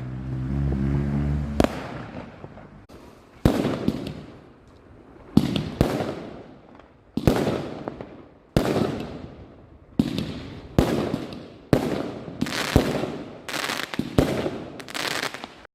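Fireworks going off: about ten sharp bangs a second or two apart, each trailing away over a second or so, coming faster near the end.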